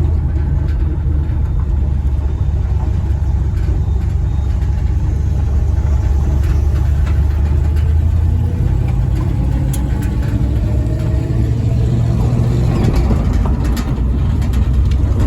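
A 1985 Dodge pickup's 318 small-block V8 running steadily as the truck drives along, its low engine note stepping up to a higher pitch about eight seconds in and holding there.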